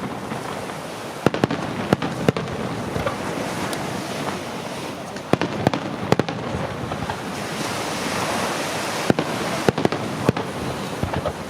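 Aerial fireworks display: a continuous dense crackling, with clusters of sharp bangs about a second in, around five to six seconds in, and again around nine to ten seconds in.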